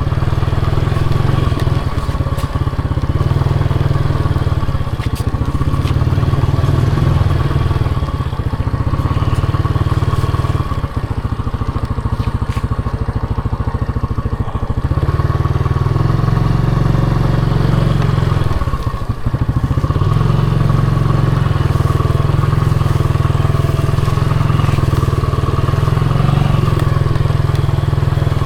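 Motorcycle engine running steadily while riding, with brief dips about 11 and 19 seconds in.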